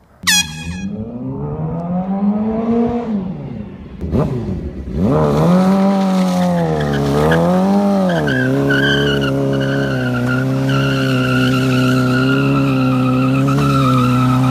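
Motorcycle engine revving: the pitch climbs and falls once, then twice more, and from about halfway through it holds a steady high pitch, like a bike riding at constant speed.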